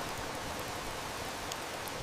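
Heavy rain falling in a steady, even hiss, with a single faint wood-fire snap about three quarters of the way through.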